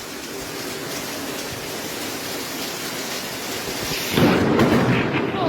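Steady rain during a thunderstorm, then a sudden loud rumble of thunder about four seconds in.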